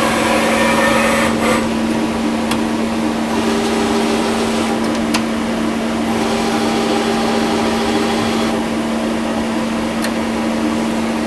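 Monforts KNC 602 CT CNC lathe powered up and running without cutting: a steady hum, with a hissing whir that starts and stops three times, and a few sharp clicks.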